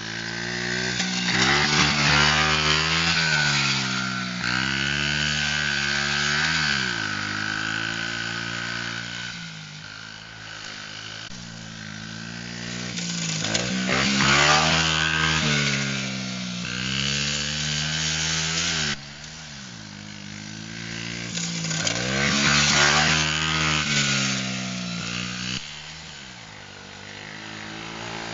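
Small single-cylinder pit bike engines being ridden around a dirt track, revving up and dropping back over and over through throttle and gear changes. The sound swells and fades several times as bikes come close and move away.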